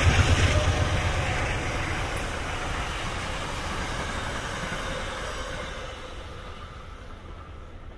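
Metro-North express train of passenger coaches passing at speed, its wheels rumbling and clattering on the rails. The noise fades steadily as the train pulls away into the distance.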